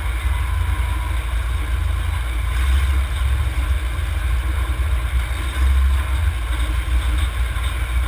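Derby cars' engines running loud, a continuous low rumble that swells now and then as they rev.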